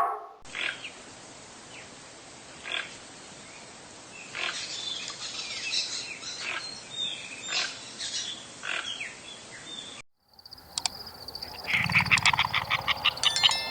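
Animal calls: short calls spaced a second or two apart over a steady background hiss. After a cut about ten seconds in, a steady high tone and a fast run of pulsed calls follow.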